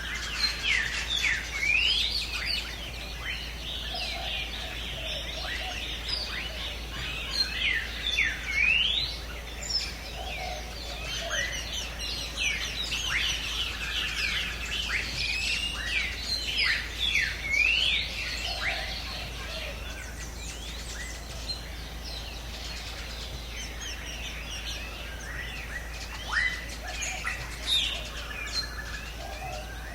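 Many birds chirping and calling together, with quick rising and falling notes overlapping in a busy chorus that thins out about two-thirds of the way through.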